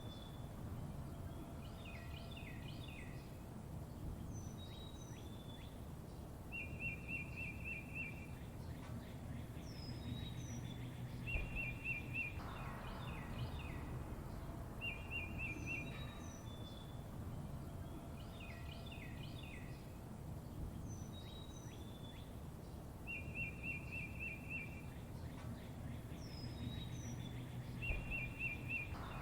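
Songbirds singing: a short, rapid trill of evenly spaced notes recurs every few seconds, with clusters of quick chirps and high downslurred whistles in between. A steady low background rumble runs under the birdsong.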